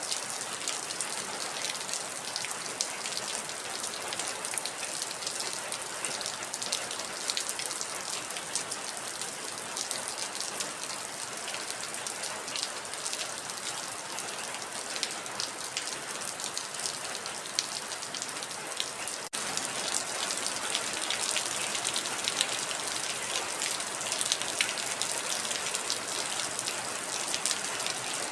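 Heavy rain falling steadily: a dense hiss full of fine, close drop patters. About two-thirds of the way through there is a momentary dropout, after which the rain is slightly louder.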